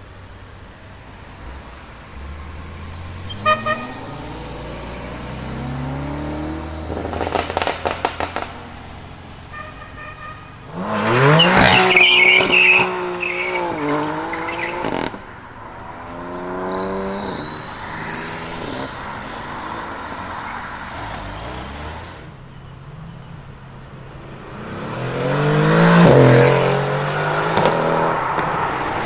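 Performance cars pulling away hard one after another, including a BMW M5 and a BMW M4, engines revving up through the gears with exhaust pops and crackles. A thin high squeal rises slightly in the middle for a few seconds.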